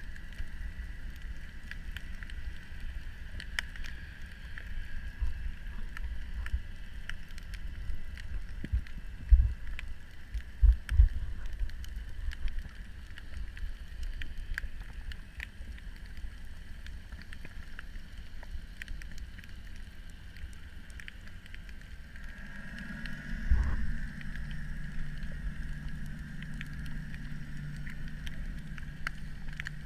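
Underwater ambience: a steady low rumble with scattered faint clicks and a few dull thumps. About three-quarters of the way through, a steady low drone joins in, typical of a boat's motor heard through the water.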